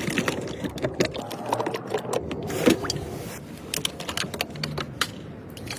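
Irregular clicks, taps and light clatter of hands working with tools and engine parts during a cooling-system repair.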